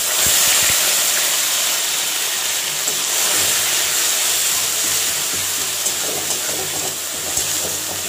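Onion paste tipped into hot oil in a kadai, setting off a loud, steady sizzle that starts suddenly and eases slightly towards the end. The paste is stirred with a metal spatula as it fries.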